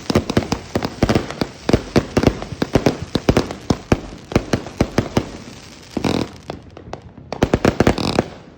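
Fireworks crackling: a dense run of sharp pops, many a second, with a short lull about six and a half seconds in before a last flurry of pops.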